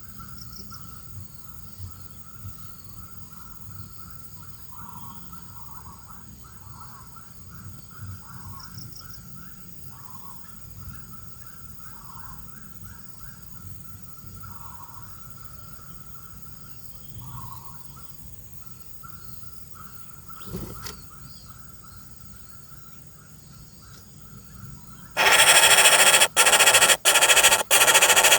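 Quiet forest ambience with a faint steady drone and soft calls repeating every two seconds or so. About three seconds before the end, a loud static hiss cuts in suddenly and breaks off briefly at regular intervals.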